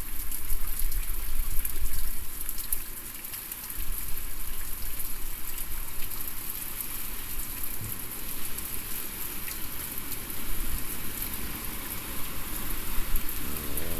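Typhoon rain falling steadily, with wind gusts rumbling on the microphone that swell and ease every few seconds.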